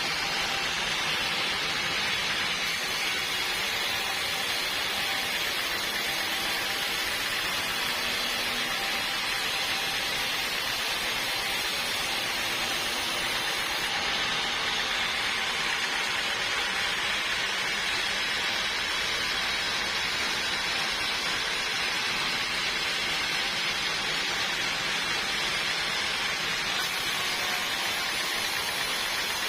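Sawmill saw cutting through hardwood: a steady machine noise with no breaks, strongest in the upper-middle range.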